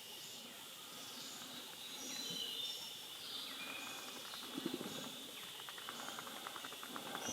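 Tropical forest ambience: a steady high insect drone with scattered short bird whistles over it. In the second half a rapid, even pulsing trill joins in, and there is a brief low sound just past the middle.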